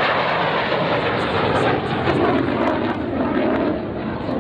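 Jet fighter aircraft flying over, a steady loud rushing engine noise that eases slightly near the end.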